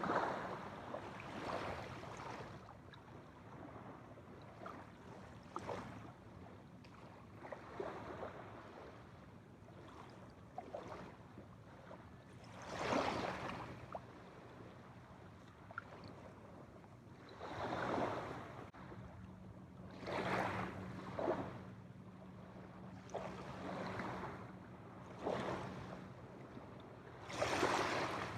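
Small waves washing onto a shore, each wash swelling and fading every few seconds over a steady background of water noise, with a faint steady low hum underneath.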